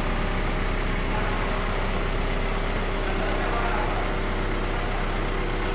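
CAT 320B excavator's diesel engine running steadily at a constant speed.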